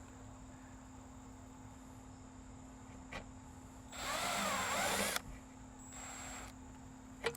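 Power drill with a step drill bit spinning up in a burst of about a second, with a high steady whine and wavering tones, then a shorter, quieter pulse. A sharp click comes near the end.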